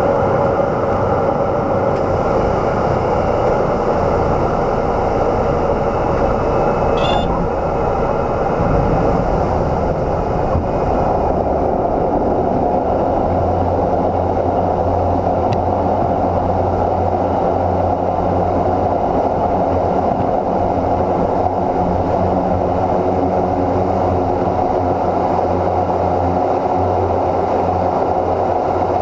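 Steady drone of a Cessna Grand Caravan C208B's PT6A turboprop engine and propeller, heard from inside the cabin, with one short click about seven seconds in.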